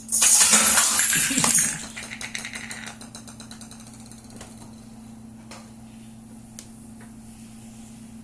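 Dominoes toppling: a loud clattering rush for about two seconds, then a fast run of separate clicks that thins out to a few single clicks. A steady low hum runs underneath.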